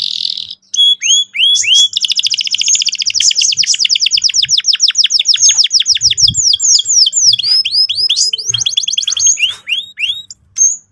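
Domestic canary singing a long rolling trill: a fast run of rapidly repeated high notes lasting several seconds, breaking into slower down-slurred notes. The song stops shortly before the end.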